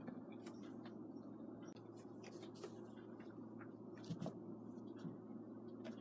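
Faint scratching and scuffling of two kittens play-fighting: light, irregular clicks and rustles over a steady low room hum.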